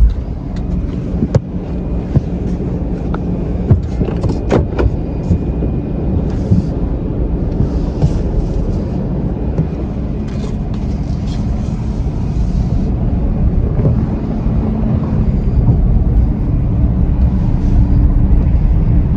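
A 2014 Chevy Silverado pickup's engine running as the truck is driven slowly up onto a flatbed tow truck, with a few knocks in the first few seconds and the engine getting a little louder near the end.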